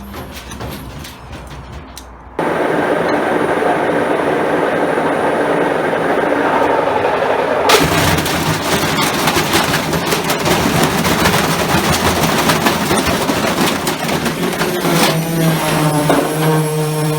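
Washing machine with a heavy loose object inside, the drum spinning and hammering in a fast, continuous rapid-fire banging. The banging starts suddenly about two seconds in and gets louder again about a third of the way through, with the motor whining near the end.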